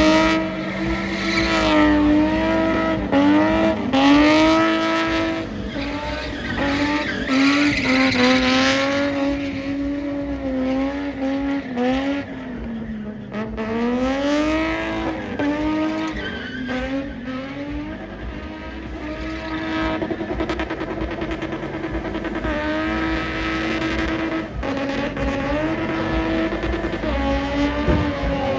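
Car engine revving up and down over and over, with tyres squealing and skidding through the first half.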